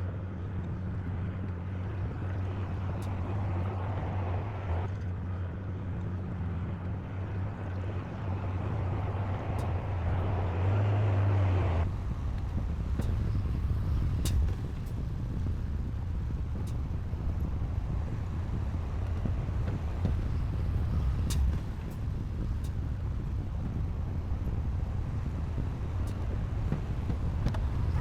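Heavy diesel earthmoving machinery running with a steady low engine hum. The hum swells around eleven seconds in, then changes abruptly at about twelve seconds to a rougher, lower running, with scattered light clicks and clanks.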